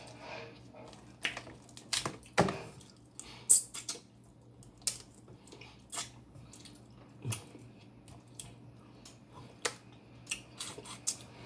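Close-miked wet mouth sounds of eating snow crab in butter: lip smacking and chewing, with sharp wet smacks and clicks at irregular intervals.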